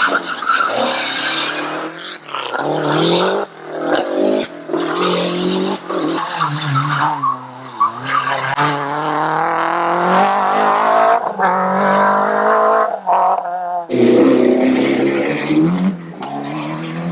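Rally cars driven hard on a special stage, engines revving up and dropping back through gear changes as they pass. The sound is a run of short, abruptly cut shots of different cars.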